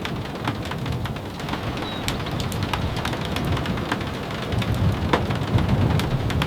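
Steady rain with a continuous low rumble underneath and scattered sharp ticks, several a second.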